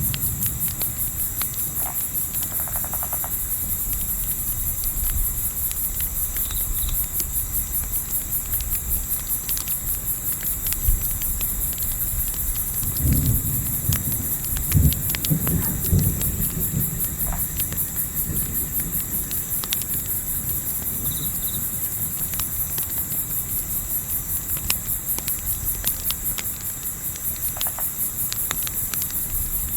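A steady, high, pulsing chorus of crickets chirring, with scattered sharp crackles of a campfire. A short cluster of low thumps comes about halfway through.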